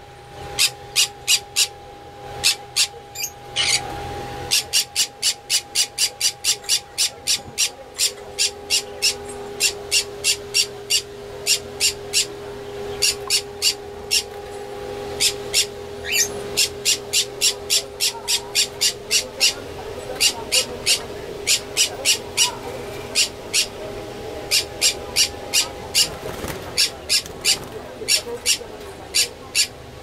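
Caged pet birds chirping: sharp, high, short chirps repeating a few times a second with brief lulls, over a faint steady hum.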